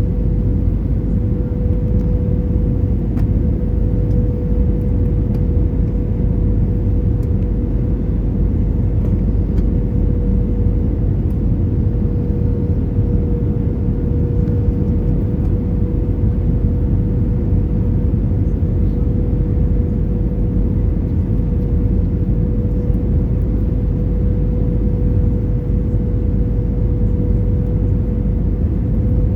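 Airbus A320 in flight, heard from inside the cabin: a steady rumble of engines and airflow with a steady mid-pitched hum running through it.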